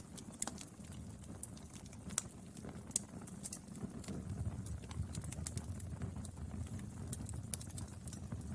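Wood fire burning: a steady low rumble of flame with irregular sharp crackles and pops from the burning wood.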